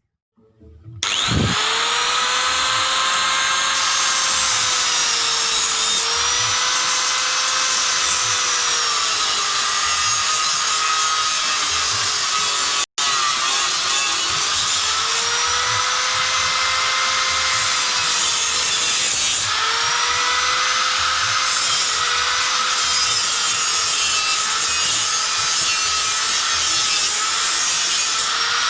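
Small power tool running against wood. Its pitch rises and falls about every two seconds as it works. It starts about a second in and cuts out for an instant about halfway through.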